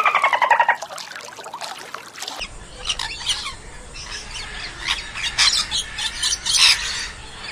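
Birds chirping in short, sharp calls over a steady low rumble from about two and a half seconds in, after a rapid pulsed call that rises and falls in pitch and ends within the first second.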